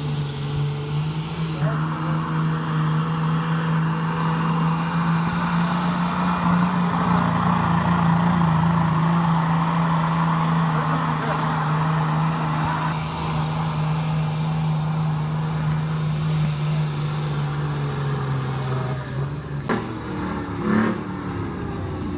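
Competition pulling tractor's engine held at full throttle at a steady high pitch for most of the run. Near the end the revs drop off, followed by a brief burst of throttle blips.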